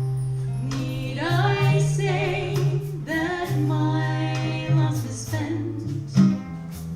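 Small live jazz band playing a slow song, with a singer holding long notes over guitar accompaniment.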